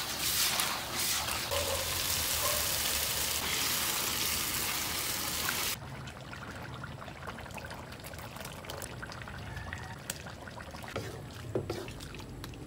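Tripe, vegetables and chorizo sizzling hard in a wok over a high gas flame as they are tossed. About six seconds in, the sizzle cuts to a much quieter simmer of the stew in its sauce, with a few knocks of a wooden spoon stirring near the end.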